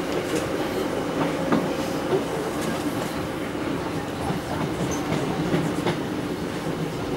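Passenger train running, heard from inside the carriage: a steady rumble with a few short clicks and knocks from the running gear.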